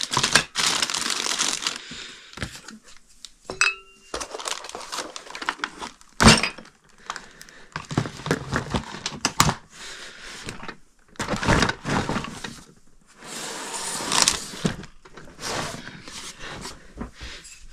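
Incandescent light bulbs being handled and sorted, with rustling and crinkling, and knocks and light glass clinks that come and go at irregular intervals.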